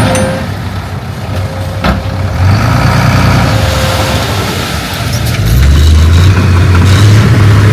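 Heavy diesel engine of earthmoving machinery running. It eases off for a few seconds, then picks up and runs louder from about five and a half seconds in, as if taking load. There is a single sharp knock about two seconds in.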